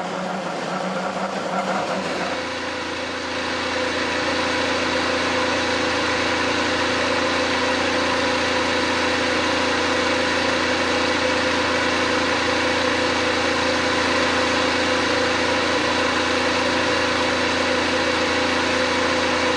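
The Indy 500 field's IndyCar engines, 2.2-litre twin-turbo V6s, running together at idle as a steady mixed drone. The sound changes about two seconds in and grows louder, then holds steady.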